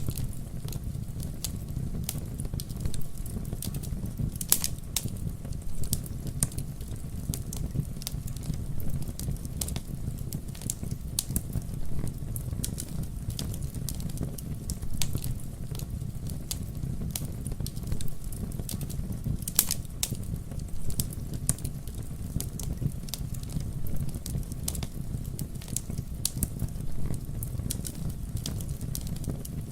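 Campfire burning with a steady low rumble of flames and frequent sharp crackles and pops of burning wood, a couple of them louder.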